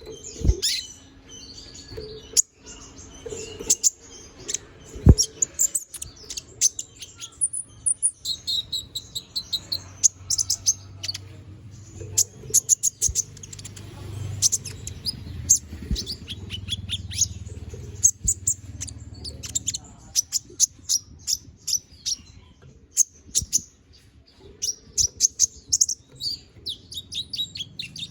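Konin (kolibri ninja), a small sunbird, singing in full 'gacor' voice: rapid runs of sharp, high chirps and trills, broken by short pauses.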